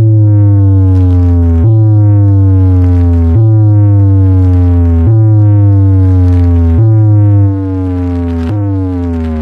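Electronic DJ sound effect played loud over a sound system: a falling synth tone that repeats about every second and a half over a heavy, sustained bass note. The bass drops back slightly near the end.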